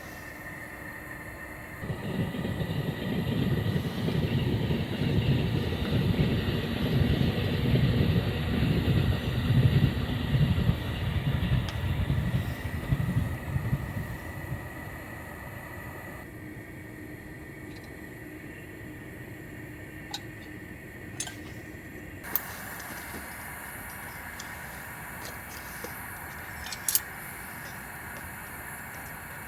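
A passing train rumbling past. It starts about two seconds in, stays loud for around twelve seconds, then fades away. A few light clinks follow near the end.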